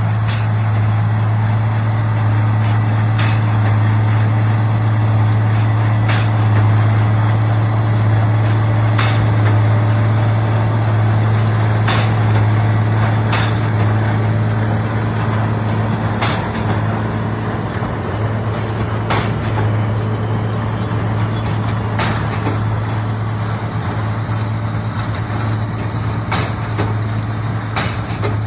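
Case IH tractor engine running steadily under load while pulling a New Holland baler, with a sharp knock roughly every three seconds.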